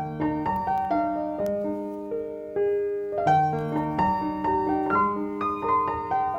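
Background piano music: a gentle melody of overlapping held notes.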